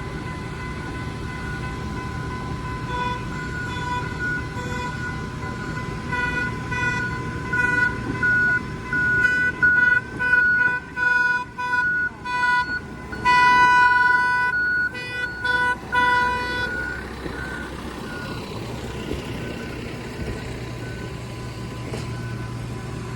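Train horn sounding in a long series of blasts of varying length, loudest in the middle stretch, over the steady rumble of the moving train.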